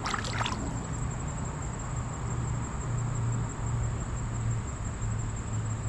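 A low, steady, slightly pulsing hum under a continuous high-pitched insect drone, with a short rustle at the start.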